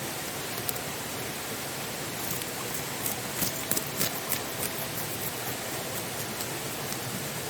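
Steady rushing noise of falling water, with a quick cluster of sharp ticks and taps about three to four and a half seconds in.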